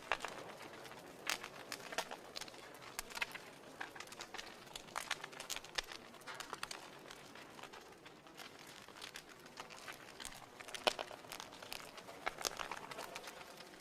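Wood fire crackling in a fireplace: irregular sharp pops and snaps over a soft hiss, with a cluster of louder snaps about eleven seconds in.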